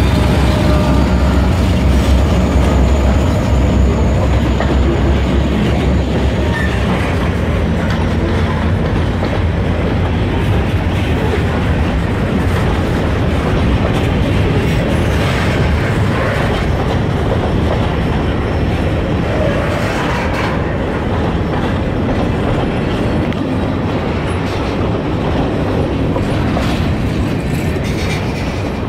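EMD SD40-2 diesel-electric locomotive passing close by, its 16-cylinder two-stroke engine running loudly for the first few seconds and fading as it goes by. Then a string of freight cars rolls past with a steady rumble and wheels clacking over rail joints.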